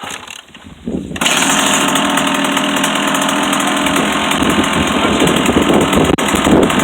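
Dirt bike engine starting about a second in, then running loudly and steadily.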